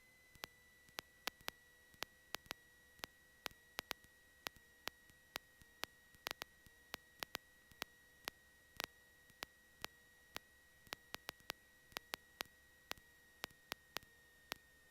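Faint electrical interference on an aircraft intercom audio line: irregular sharp clicks, two or three a second, over a steady faint high-pitched whine and low hiss.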